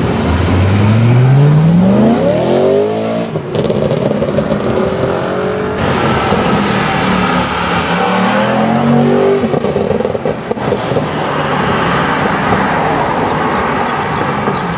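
BMW M3 E92's V8 through an Akrapovic exhaust, accelerating hard. The engine pitch climbs steeply from about a second in and breaks off at about three and a half seconds, then climbs again from around seven to nine seconds in.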